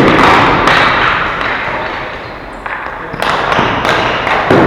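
Ball hockey game sounds: sharp knocks and thuds of sticks and ball striking, several times over a noisy background of play.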